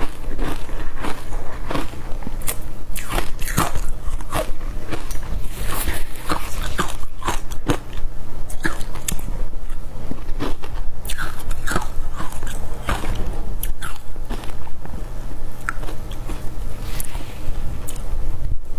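Close-miked crunching of ice being bitten and chewed, a dense, irregular run of sharp cracks and crackles.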